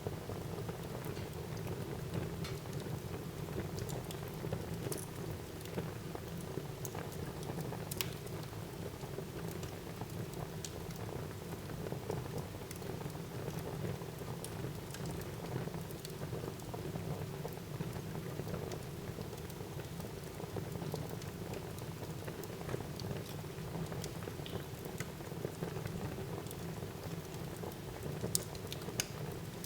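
Wood fire burning in a fireplace: a steady low rumble and hiss of flames with many small crackles and pops throughout, a sharper pop about eight seconds in and a few more near the end.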